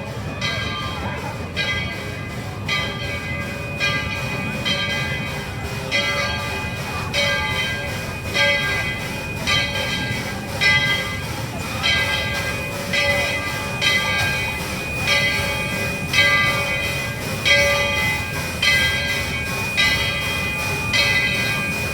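Locomotive bell ringing steadily, about one stroke a second, over the low rumble of a moving train; the strokes grow louder toward the end as the train comes closer.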